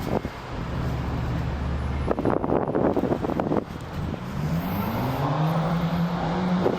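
A motor vehicle's engine running, its pitch rising from about four seconds in and then holding steady, with a burst of noise in the middle.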